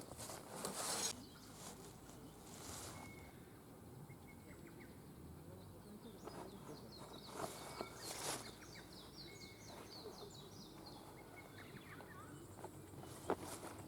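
Quiet outdoor ambience with small birds chirping in quick series and a few brief rustling or shuffling sounds.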